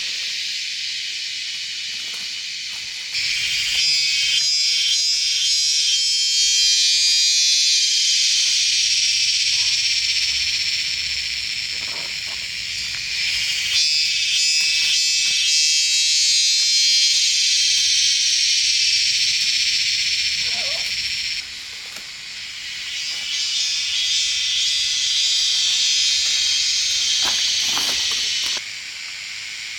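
Steady high-pitched buzzing chorus of insects, its level jumping abruptly up about three seconds in and down about twenty-one and twenty-eight seconds in.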